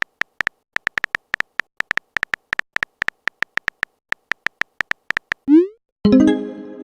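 Chat-app sound effects: a quick, uneven run of short high electronic beeps, like typing blips. About five and a half seconds in comes a short rising swoop, then a bright chime that fades, the kind that marks a message being sent or arriving.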